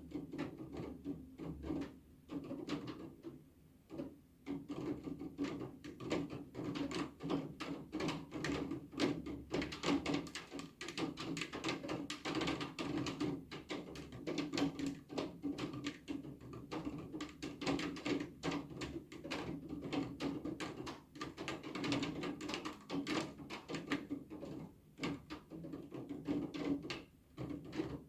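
Rain, with drops tapping quickly and irregularly on a hard surface.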